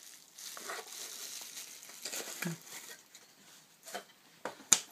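Packaging rustling and crinkling as items are handled out of a product box. A few sharp clicks near the end, the loudest shortly before the end.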